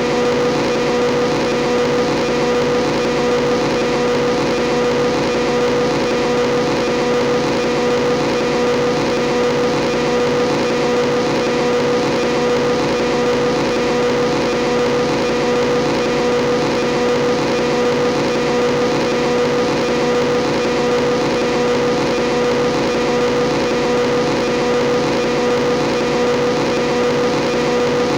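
Motorbike engine sound running at a steady, unchanging speed, a continuous even hum with no revving.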